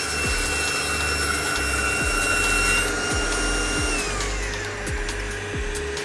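Cordless table saw running with a steady whine, then switched off about four seconds in and winding down, over background music with a steady beat.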